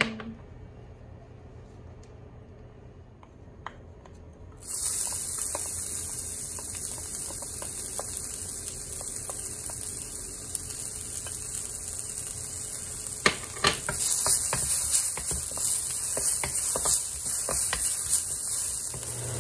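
Minced garlic and ginger sizzling in hot oil in a wok: the sizzle starts suddenly about five seconds in and grows louder later on, with a wooden spatula scraping and clicking against the wok as it is stirred.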